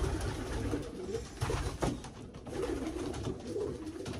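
Racing pigeons cooing in a loft, a continuous low murmur, with a couple of short knocks a little under two seconds in.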